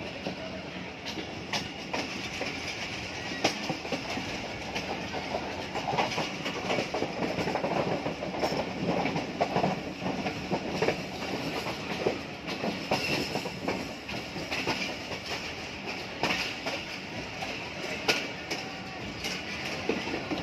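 Passenger train coach running at speed: a steady rumble and rush of wheels on the track, broken by irregular sharp clacks.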